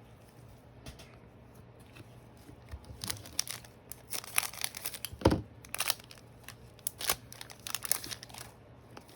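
Trading cards and their crinkly packaging being handled, in quick rustling, crinkling bursts from about three seconds in, with one louder knock midway.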